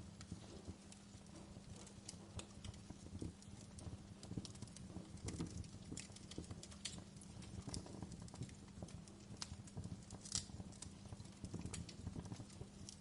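Wood fire crackling in a fireplace: irregular small pops and snaps over a low, steady rumble, with one sharper pop about ten seconds in.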